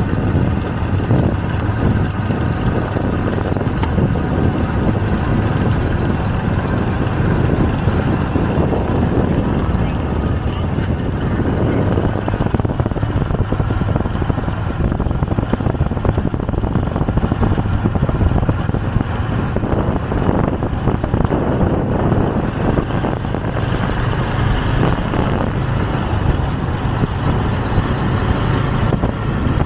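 Riding on a motorcycle taxi through city traffic: the motorbike's engine and road noise make a steady, loud low rumble.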